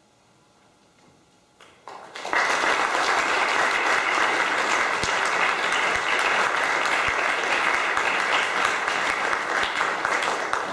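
Congregation applauding the choir after its piece: a moment of quiet, then clapping breaks out about two seconds in and holds steady, fading only at the end.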